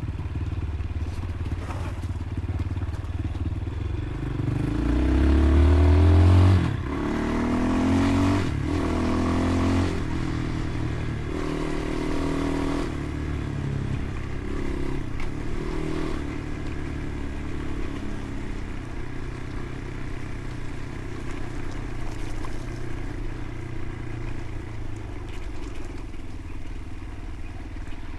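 Motorcycle engine pulling hard through the gears. The revs climb to the loudest point and drop at a shift about seven seconds in, climb and shift again near ten seconds, make one more short pull, then settle into a steady cruise.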